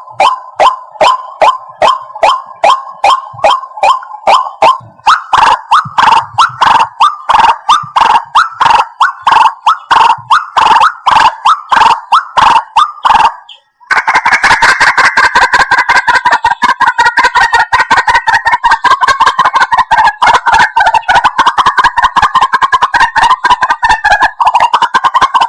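White-breasted waterhen calling: loud, repeated harsh croaking notes at about two or three a second. After a brief break about halfway through they give way to a faster, denser run of notes.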